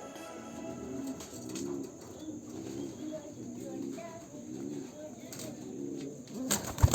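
Racing pigeons cooing over and over, each coo a short wavering low call about a second after the last. A loud, sudden clatter breaks in near the end.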